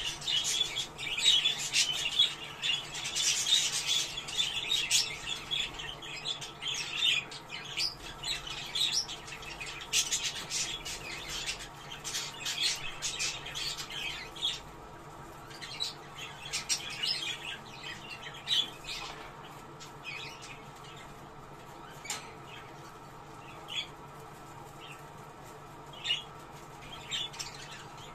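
Budgerigars chattering and warbling, the kind of flock chatter played to bring budgies into breeding condition. The chatter is dense at first and thins to scattered single chirps about halfway through.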